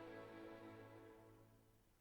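Symphony orchestra playing a soft sustained chord that fades away to near silence by the end.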